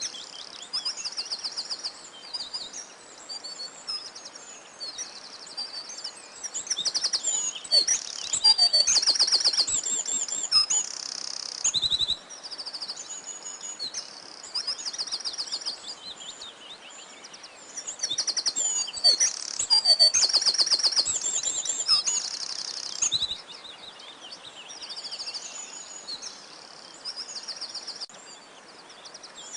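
Several songbirds singing together: many high chirps and fast trills overlapping, with louder stretches of song about a third of the way in and again past the middle.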